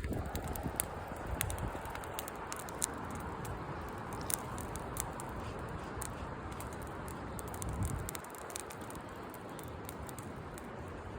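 Campfire crackling: irregular sharp pops and snaps of burning wood over a steady hiss.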